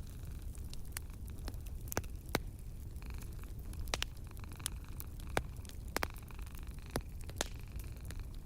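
Wood fire in a fireplace crackling, with sharp, irregular pops over a steady low rumble.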